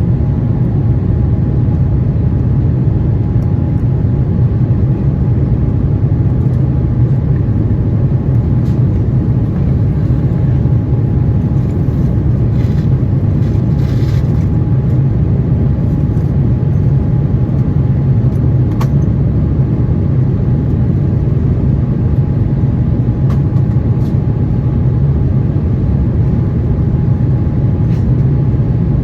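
Steady cabin rumble inside an Airbus A350-900 airliner, its engines running with a faint steady tone over the low drone and an occasional light click.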